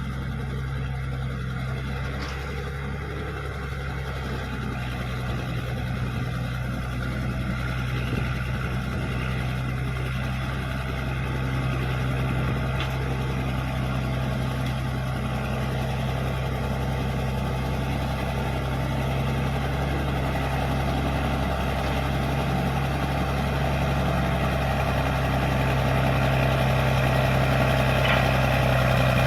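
Caterpillar D6D bulldozer's diesel engine running steadily at working load, growing gradually louder over the last several seconds.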